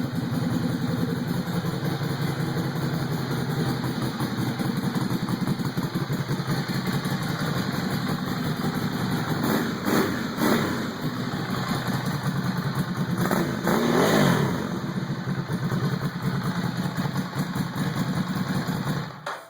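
2011 Ducati Hypermotard 796's air-cooled L-twin engine idling through a cored exhaust with the baffles removed, giving a loud, open note. It is revved briefly about halfway through and again a few seconds later. The sound cuts off abruptly near the end.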